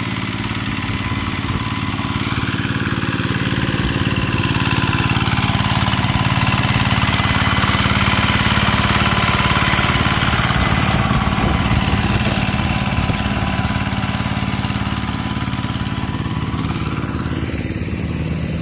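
Rice-field tractor engine running steadily as it plows a paddy. It grows louder through the middle and eases off again near the end.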